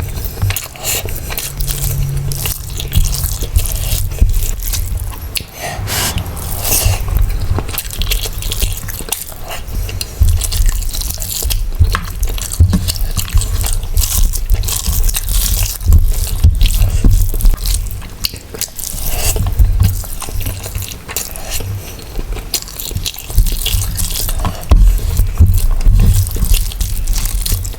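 Close-miked eating sounds: a person chewing mutton biryani and curry, with wet, sticky mouth noises and many small clicks and smacks running on without a break.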